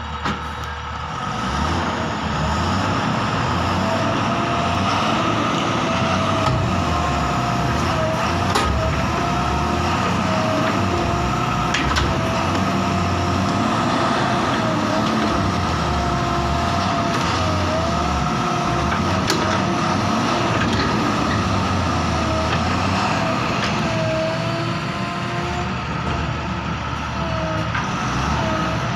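Heavy diesel engines running steadily under load, with a low pulsing rumble and a high whine that wavers slightly up and down throughout.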